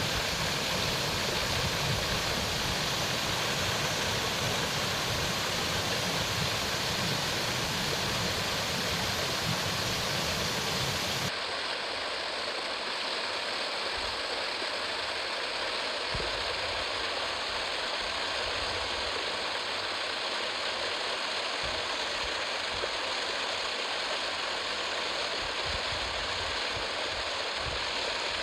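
Waterfall water rushing, a steady even noise. About eleven seconds in it changes suddenly and loses most of its deep rumble.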